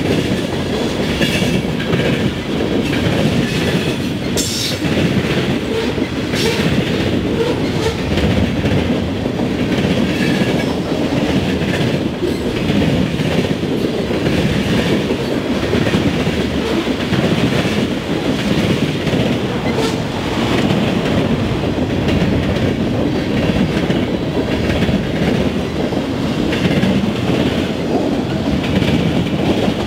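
A mixed freight train's cars rolling past close by: a steady rumble of steel wheels on the rails with clickety-clack from the rail joints and an occasional sharp click.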